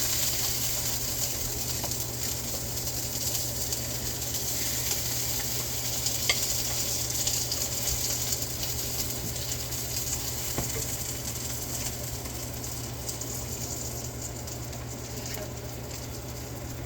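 Birria tacos frying in a pan, a steady sizzle that slowly eases off, with a light knock about six seconds in.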